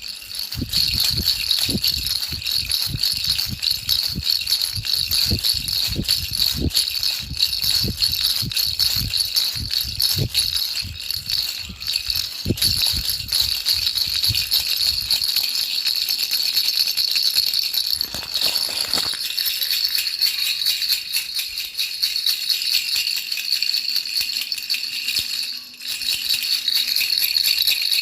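A baby rattle shaken without pause, a continuous fast rattling. Low knocks come along with it through the first half and stop about halfway in.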